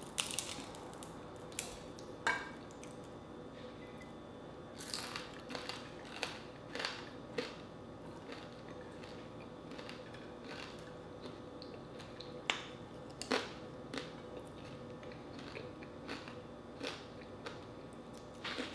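Close-up chewing and crunching of dried fish with rice: scattered short crunches and clicks, some from fingers picking food off the plate.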